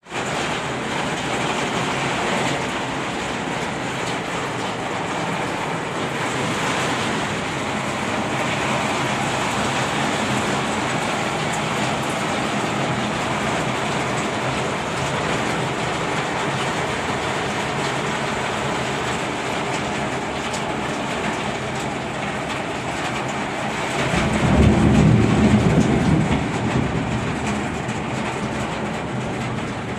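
Heavy rain pouring down in a steady downpour. About 24 seconds in, a low rumble swells for a few seconds and fades.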